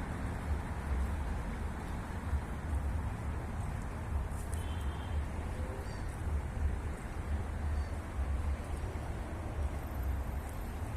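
Steady low rumble of city traffic, an even noise with no distinct events.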